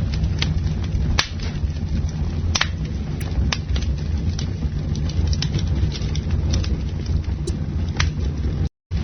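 Campfire burning: a steady low rumble of flames with irregular sharp crackles and pops of burning wood. The sound cuts out completely for a split second near the end.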